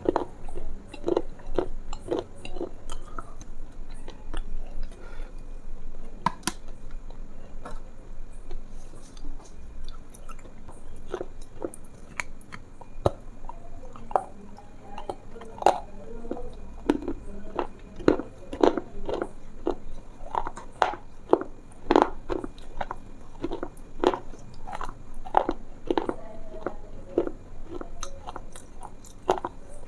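Close-miked chewing and biting with crunching: a dense, irregular run of short crisp crackles, several a second.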